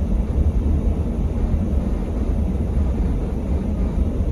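Steady low rumble of a car heard from inside its cabin, the engine running.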